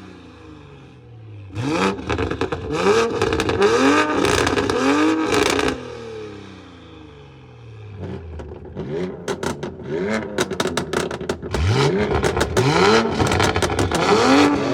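A high-performance car engine being revved in quick repeated blips, the pitch shooting up and dropping again each time, in two bouts with a short lull between. Sharp exhaust pops and crackles come between the blips, thickest in the second bout.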